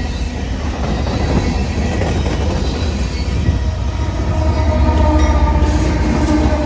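Union Pacific train rolling past, wheels rumbling and clattering on the rails. A ringing metallic whine joins in after about four seconds.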